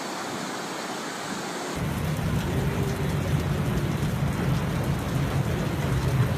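Steady rush of heavy rain. About two seconds in it changes abruptly to louder, rougher rain over a strong low rumble.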